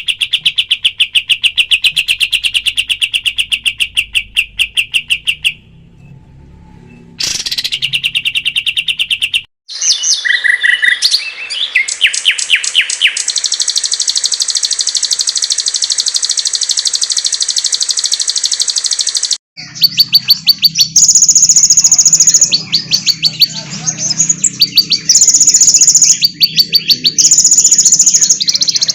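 Recorded songbird calls spliced together for bird-training audio: fast trains of high, rapidly repeated chirps and trills. The recording cuts abruptly to a different bird's song a few times, after a brief lull about six seconds in.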